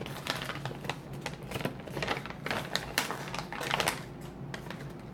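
Plastic snack pouch crinkling and crackling in quick irregular bursts as it is handled and opened.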